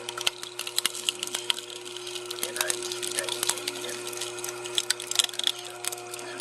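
Irregular crackling and snapping of wood, many sharp clicks at uneven intervals, over a steady low hum.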